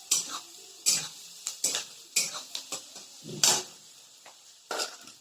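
A cooking utensil scraping and knocking against a pan as onion and green chillies are stirred in hot oil, with a faint sizzle. The strokes are irregular, about one or two a second, and the loudest comes a little past the middle.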